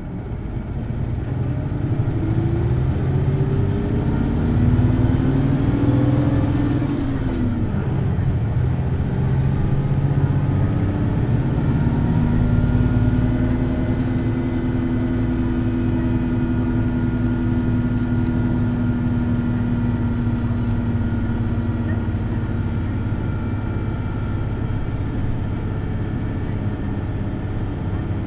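Hino Blue Ribbon City Hybrid bus's diesel engine pulling hard at high revs, heard on board: the note climbs, drops briefly about seven seconds in, climbs again and then holds steady before easing near the end. A faint high whine rises and falls above it in the first half.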